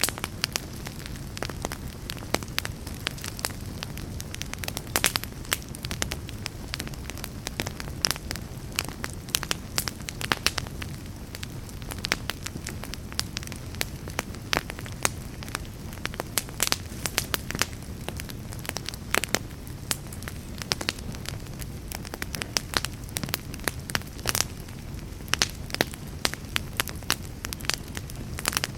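Fire in a fireplace crackling steadily, with frequent irregular sharp pops over a low, even rumble of burning.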